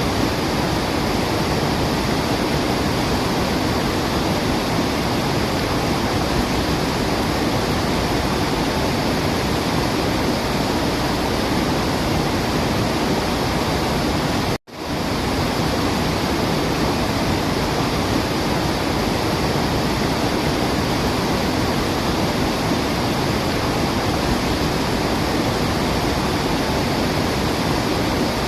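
Waterfall rushing in a steady, even roar of water. It cuts out for a split second about halfway through, then resumes.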